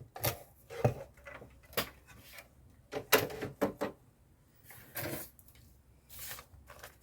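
Paper and packaging being handled on a craft table: a scattering of short rustles, taps and light knocks, some close together, with gaps between.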